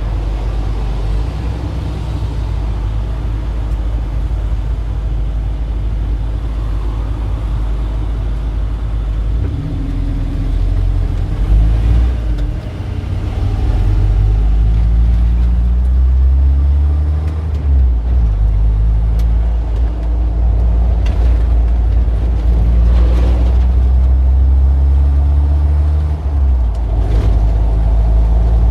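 Street traffic: motor vehicles going by with a steady low engine rumble. About ten seconds in, a heavier engine grows louder, its pitch rising and falling as it pulls away and changes speed.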